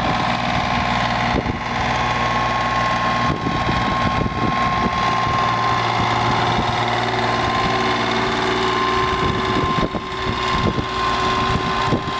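John Deere 2520 compact tractor's three-cylinder diesel engine running steadily, with a steady high whine over the engine hum.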